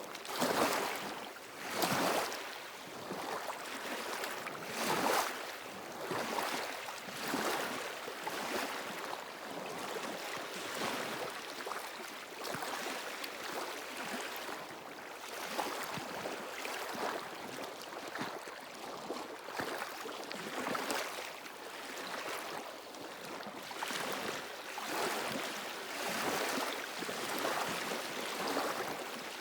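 Small waves washing over a stony shore, hissing in irregular surges every second or few.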